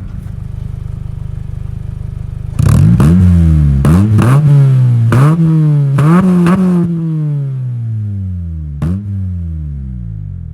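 2008 Honda Civic Si's four-cylinder engine through a custom 2 1/4-inch straight-pipe exhaust with a Vibrant resonator. It drones at a steady cruise, then revs hard through several quick upshifts, each a rising pitch cut off by the shift. It then falls away in one long drop in pitch as the car coasts, with a single sharp pop near the end.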